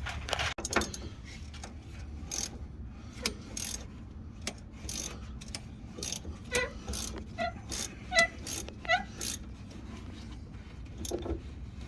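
Irregular clicks and clinks of hand tools on metal: a ratchet wrench working the top mounting nut of a pickup's front shock absorber, with a few short ringing metal clinks in the middle.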